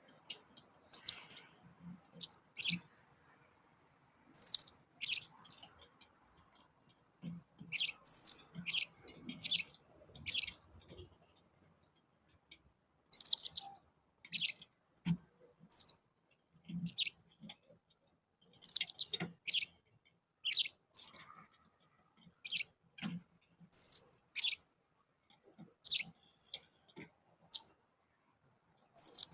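Blue-crowned hanging parrots (serindit) calling: short, sharp, high-pitched chirps in clusters of two to four, repeating every couple of seconds.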